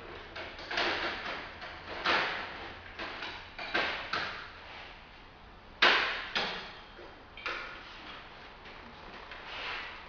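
Clatter of hand tools and metal parts being handled: a string of irregular clanks and knocks, the sharpest a little past halfway.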